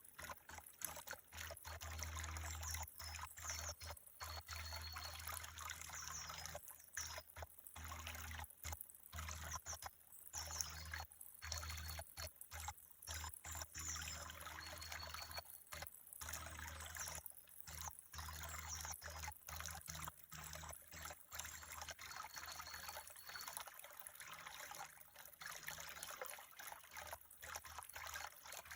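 Faint trickling water of a small stream, cutting out briefly again and again, over a steady low hum.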